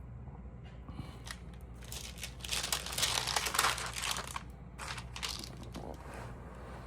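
Crinkling and rustling as stamps are handled, loudest in a burst from about two to four and a half seconds in, with a shorter crinkle around five seconds.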